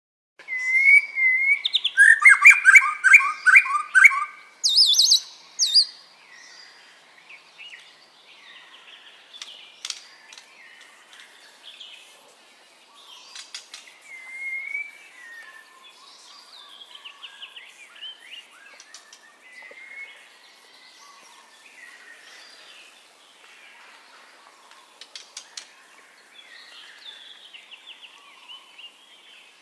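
White-rumped shama (murai batu) singing: a loud run of rich whistles and rapid repeated notes and trills in the first six seconds, then softer, varied whistled phrases.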